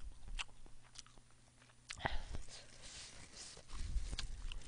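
A person chewing a mouthful of food close to the microphone, with scattered wet mouth clicks and smacks.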